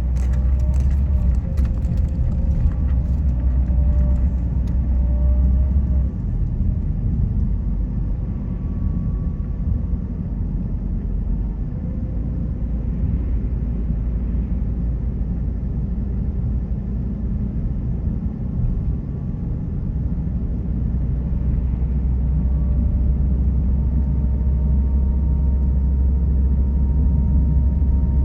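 A car driving, with steady road rumble and tyre and engine noise. The deep low rumble swells at the start and again over the last several seconds.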